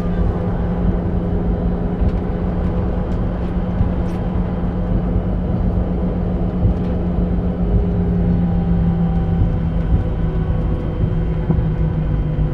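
Southwest Boeing 737 jet engines running steadily at low power, a constant drone with a low hum beneath it. There is no spool-up.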